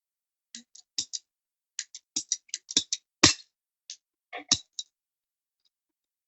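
Ratcheting PVC pipe cutter clicking as its handle is worked: a quick, uneven run of sharp clicks lasting about four seconds, stopping about five seconds in.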